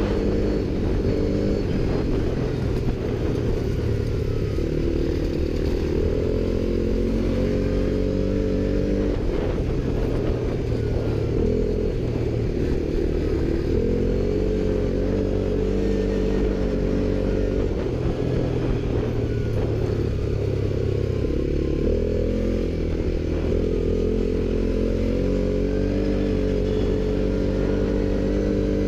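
ATV engine running under way, its pitch rising and falling repeatedly as the throttle is opened and eased off.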